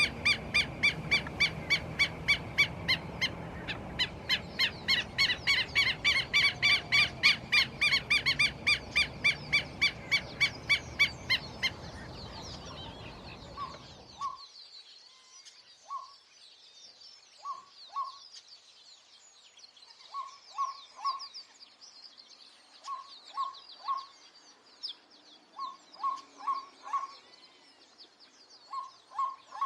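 Bird calls: a loud, fast series of harsh repeated notes that fades out after about twelve seconds. Then come short clear notes in twos, threes and fours, with faint high twittering behind them.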